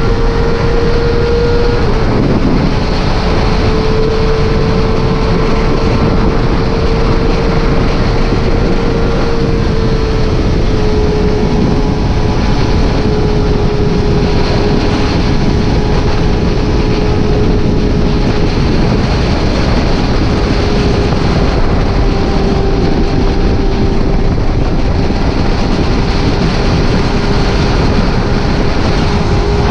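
Motorcycle riding at steady cruising speed: a loud, even rush of wind and road noise over a steady engine note, which eases slightly in pitch a couple of times.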